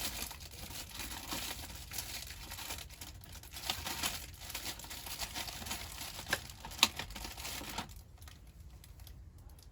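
Rustling and crinkling, as of plastic or paper being handled, with scattered sharp clicks, the loudest about seven seconds in; it stops abruptly about eight seconds in.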